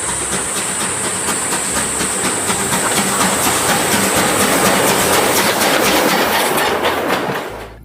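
Train running, with a steady clickety-clack of wheels over rail joints under a noisy rush and a thin high steady tone. It fades away near the end.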